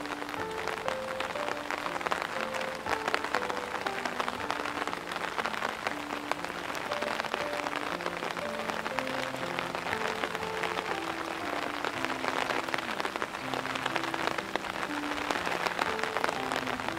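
Heavy rain pattering steadily on surfaces, under added background music: a slow melody of single held notes.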